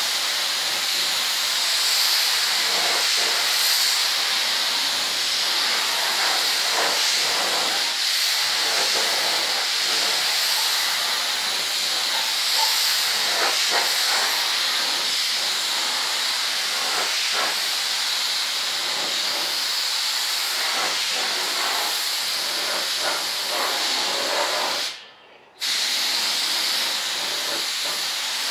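Paint spray gun spraying primer: a steady, loud air hiss. It stops for about half a second near the end, then starts again.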